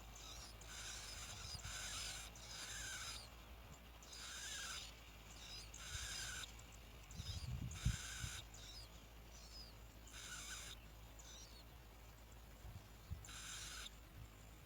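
Bar-winged prinia nestlings begging: about nine harsh, buzzy calls of half a second to a second each, coming at irregular intervals, with thin short chirps between them and a low thump about eight seconds in.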